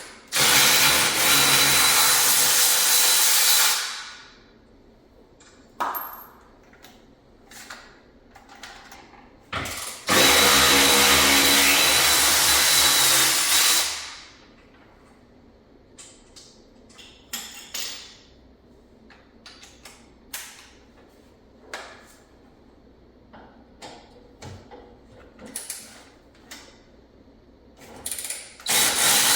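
Cordless power tool run in bursts of three to four seconds, twice and again starting near the end, undoing bolts during an engine removal. Between the bursts come scattered clinks and knocks of tools and metal parts.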